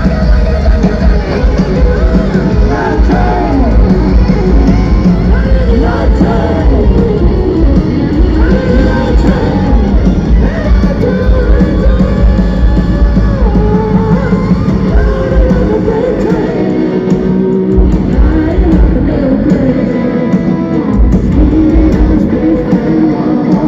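Loud rock music played live: a singer's voice over electric guitar and a heavy bass, unbroken throughout.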